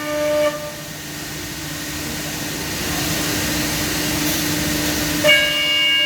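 Trima BFM 310/110 CNC machining center running: a steady high whine made of several tones. About half a second in, it gives way to a rushing noise that slowly builds for several seconds, and the whine returns near the end.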